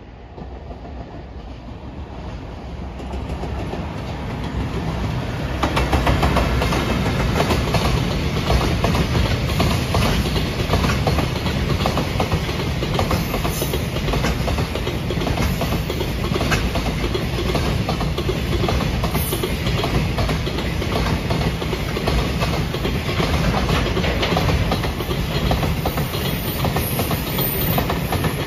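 Container freight train passing close by: the sound builds over the first few seconds as it arrives, then a loud, steady rumble of the flatcars' wheels on the rails, with clickety-clack over the rail joints.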